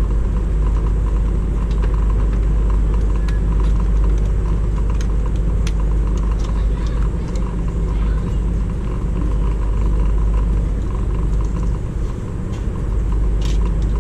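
Steady, loud low engine rumble with scattered light clicks over it.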